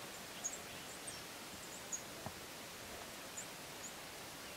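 Small birds giving short, high chirps, mostly in the first two seconds and twice more later, over a steady outdoor hiss. A single soft knock comes a little past two seconds in.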